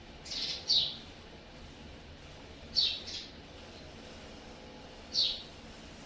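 A bird chirping: five short, high, downward-sliding chirps, two quick pairs and then a single one near the end.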